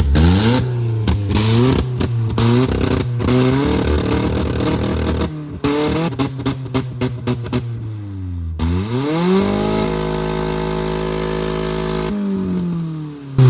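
Ford engine in a 1995 Mazda revved hard over and over, its pitch climbing and dropping in quick pulls. About nine seconds in it climbs to a high, steady rev and holds it for about three seconds before falling away.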